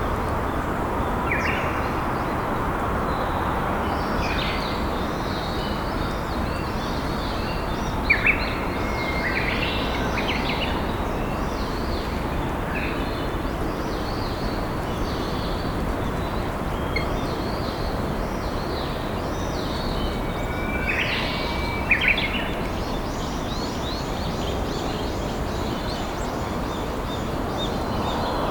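A river flowing steadily, with wild songbirds calling and chirping over it. The loudest calls come about eight seconds in and again around twenty-two seconds.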